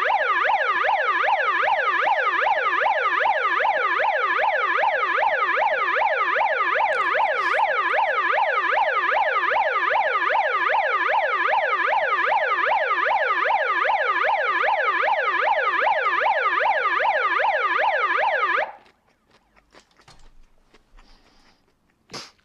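A siren sounding a rapid up-and-down yelp, loud and at a constant level, that stops abruptly near the end; faint clicks follow.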